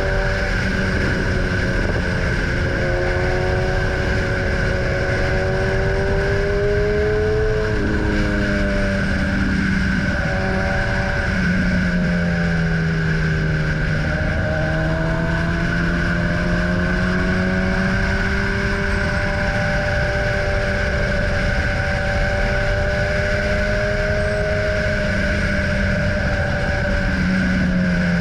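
Motorcycle engine under way, its pitch climbing steadily and then dropping sharply several times as the rider accelerates and shifts gears, with a steady rush of noise underneath.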